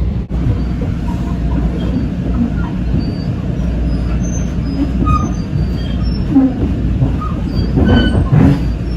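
Metro-North M7 electric train running, heard from inside the car: a steady low rumble of wheels on rail with brief high wheel squeals, growing louder and rougher about eight seconds in.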